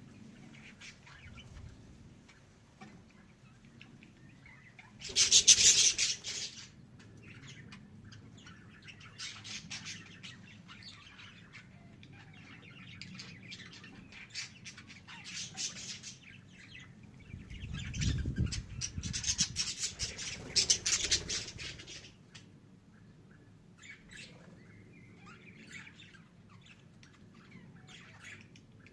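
Budgerigars chirping and twittering in scattered bursts, loudest about five seconds in and again from about eighteen to twenty-two seconds in. A low rumble comes in near eighteen seconds.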